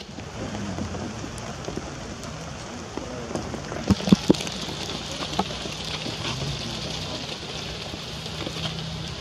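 Steady rain falling, growing louder about four seconds in, with a few sharp knocks around then.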